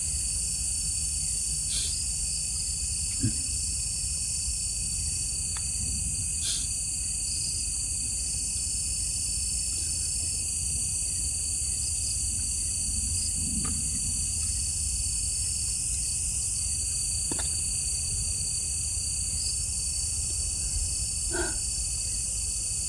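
Chorus of night insects trilling steadily at several high pitches over a low rumble, with a few faint scattered ticks.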